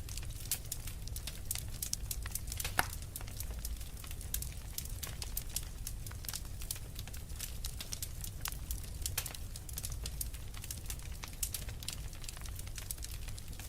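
Wood fire in a fireplace crackling: many small irregular pops and snaps over a low steady rumble of burning logs, with one sharper pop about three seconds in.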